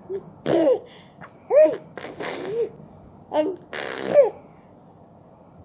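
A baby's short, breathy squeals and huffs, about six in quick succession, each rising and falling in pitch, ending about four and a half seconds in.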